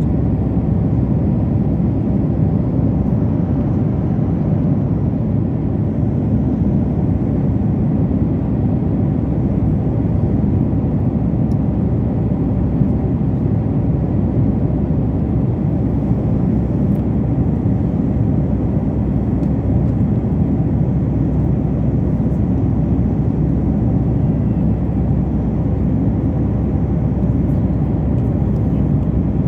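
Steady, loud rumble of an airliner heard from inside the passenger cabin, engines and airflow running evenly with no change.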